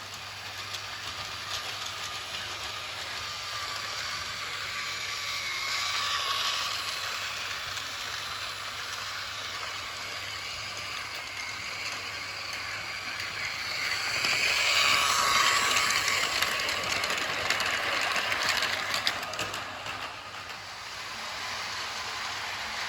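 Battery-powered Märklin My World toy train running on plastic track: a steady whir of its small motor and rattle of its wheels, growing louder twice as it passes close by.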